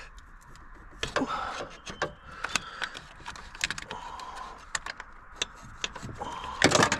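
Scattered clicks and knocks of hand tools and metal engine parts being handled, with a cluster of louder knocks near the end.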